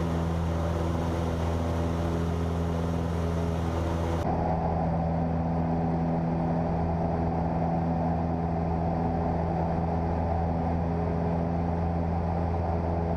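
Cessna 172's piston engine and propeller droning steadily in flight, heard inside the cabin. A high hiss over the drone drops away about four seconds in.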